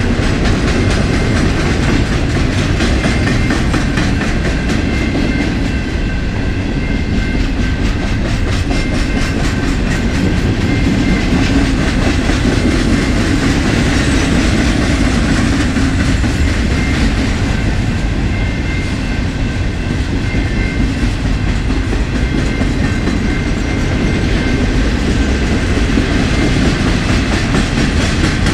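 Cars of an empty BNSF freight train rolling past: a steady loud rumble with rapid clicking of the wheels over the rail, and a few thin high tones running under it.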